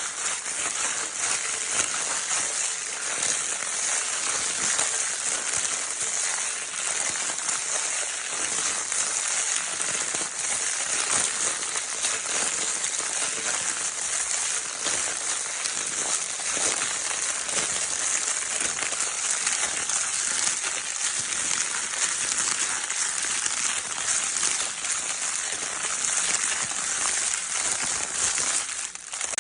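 Crinkle paper of a baby's crinkle toy being crumpled and rustled continuously: a dense, steady crackle of countless tiny ticks, mostly high-pitched.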